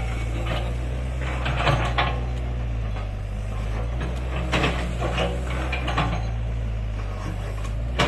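Excavator's diesel engine running steadily, with irregular clanks and knocks from its work with rock and gravel, several in clusters around two seconds, five seconds and near the end.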